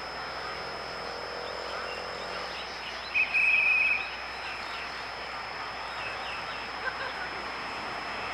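Outdoor ambience with a steady high-pitched whine and scattered faint chirps. About three seconds in there is a loud buzzing trill lasting under a second, an animal call.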